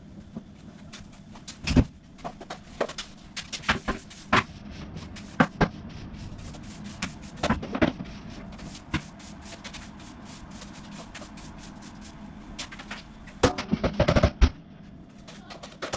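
Scattered knocks, clicks and clatters of household things being handled and put down during cleaning, with a busy run of knocks near the end, over a steady low background hum.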